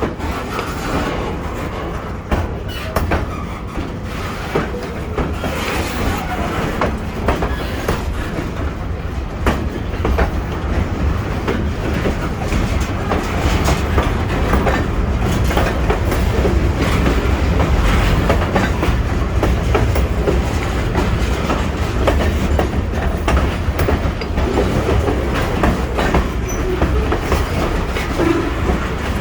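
Railroad cars rolling past, their wheels clacking over the rail joints over a steady low rumble.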